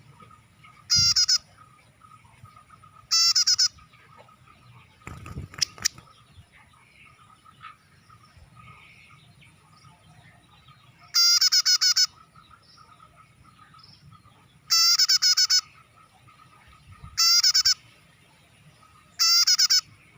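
Prinia (prenjak) calling: six loud bursts of rapidly repeated chattering notes, each under a second long, spaced a few seconds apart. A few knocks sound about five to six seconds in.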